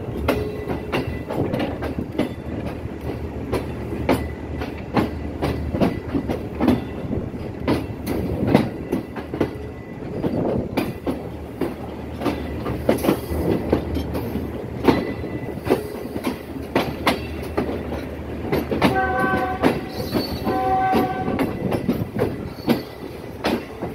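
Moving passenger train heard from aboard the coach: the wheels clatter irregularly over rail joints and points over a steady running rumble. A train horn sounds in two short blasts near the end.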